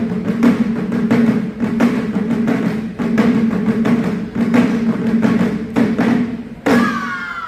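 Wadaiko taiko drums playing a fast, dense run of strokes, the drum bodies ringing low. The run closes with a final hit about seven seconds in, followed by a brief shout.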